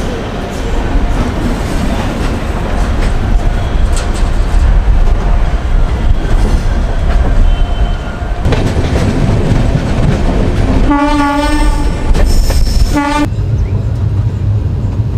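Passenger train running on the rails, a steady rumble and rattle of wheels and carriages. Near the end a train horn sounds twice, a longer blast then a shorter one.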